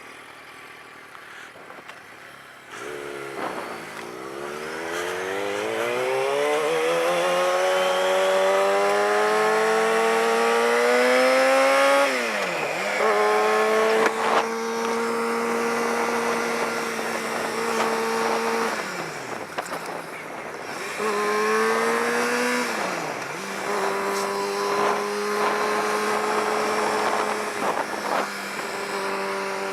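Inline-four sport motorcycle engine pulling away, its revs climbing steadily for several seconds, then dropping sharply at an upshift about twelve seconds in. It then cruises at a steady pitch, with another short rise and upshift a little past the middle, over a rush of wind noise.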